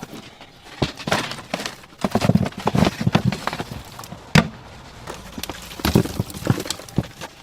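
A string of irregular knocks and clatters, some with a dull thud, as of work at a fried-chicken stall's counter.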